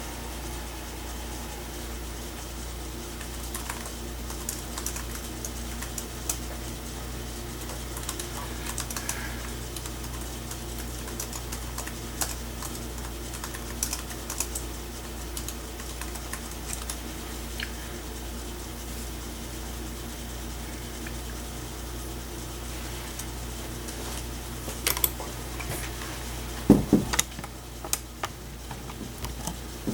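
Irregular computer-keyboard typing, a few keystrokes at a time, over the steady hum of a running computer. The loudest knocks come about 27 seconds in.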